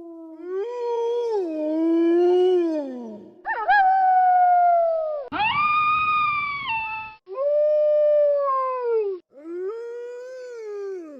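Wolves howling: about five long howls one after another, each wavering in pitch and falling away at its end, with some starting or stopping abruptly.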